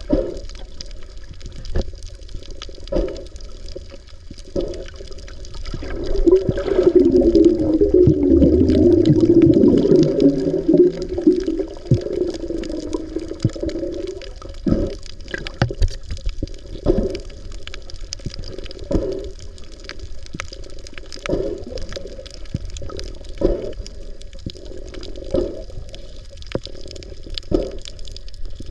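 Muffled underwater sound of a snorkeler's camera, with soft knocks every couple of seconds. A louder bubbling rush of water and bubbles starts about six seconds in and dies away around fourteen seconds.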